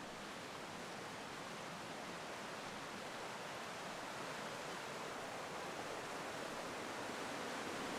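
Mountain stream and small waterfalls rushing steadily, growing slowly louder as they come nearer.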